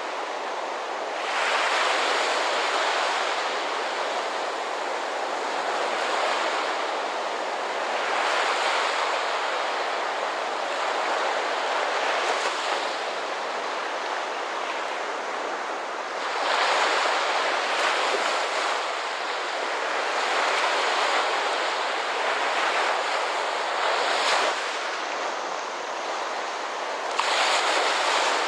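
Ocean surf: a steady rush of breaking waves that swells every few seconds as each wave comes in.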